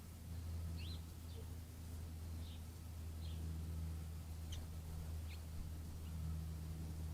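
Songbirds giving short, sharp chirps, about six or seven scattered through the few seconds, over a steady low hum.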